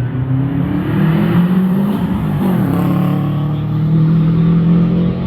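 Rally car engine revving hard under acceleration, its pitch climbing, with an abrupt change about halfway through, like a gear change, before it pulls on at high revs.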